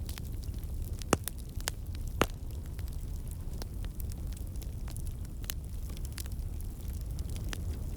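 Fire crackling in a fireplace: a steady low rumble of flames under frequent sharp pops and snaps, the two loudest about one and two seconds in.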